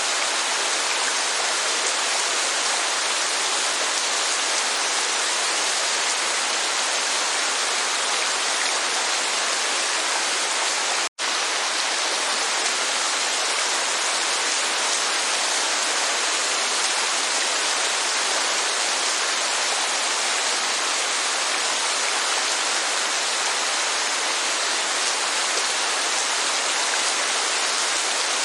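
Steady hiss of rain mixed with rushing falling water, even and unbroken except for a split-second cut to silence about eleven seconds in.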